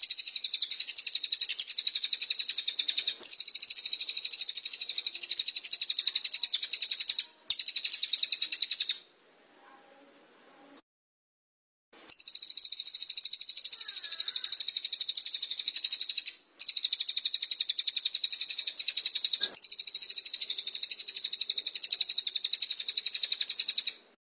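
A songbird's fast, unbroken trill of rapidly repeated high notes, sung in long runs that break briefly twice and stop for a couple of seconds about ten seconds in.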